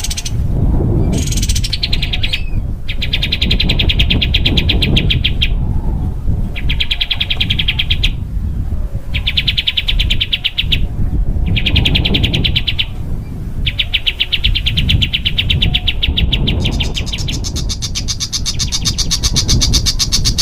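A small songbird's fast, close-packed trills: quick runs of rapidly repeated sharp notes in bouts of one to three seconds, separated by brief pauses. Near the end the song shifts to a higher-pitched, faster trill. A low rumble runs underneath.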